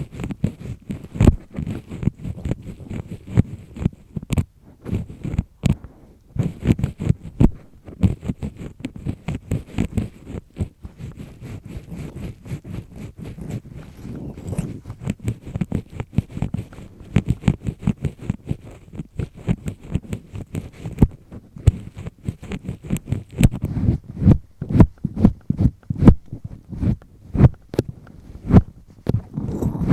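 Double-disc-type earpick scraping firmly inside an ear canal, close to the microphone: a continuous run of irregular rubbing and scratching strokes, several a second, with sharp clicks here and there.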